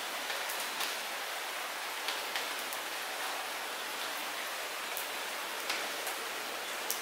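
Light rain falling steadily, a soft even hiss with scattered individual drops ticking sharply on nearby surfaces.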